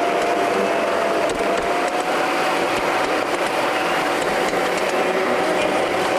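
A 5-inch gauge ride-on miniature train running along its track, a continuous rushing noise with one steady high whine held over it.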